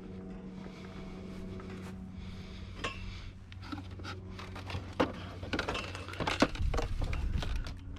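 Items in a kerbside junk pile being moved and rummaged through: scattered clinks and knocks, busier in the last few seconds, over a steady low hum.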